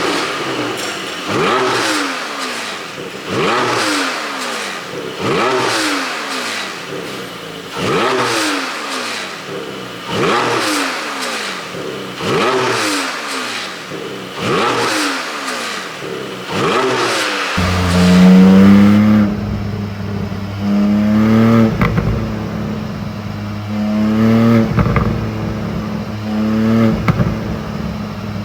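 Porsche 718 Cayman GT4's 4.0-litre flat-six revved repeatedly, about one blip every second and a half, each rev falling away with exhaust pops and crackles from an ECU pop-and-crackle tune. About two-thirds of the way through the sound turns deeper and fuller, with the revs climbing higher and the pops continuing.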